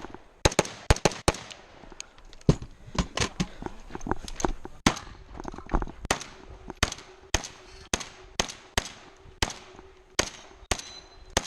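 A string of rapid gunshots, about two dozen in quick pairs and small clusters with short pauses between, some loud and close and others fainter.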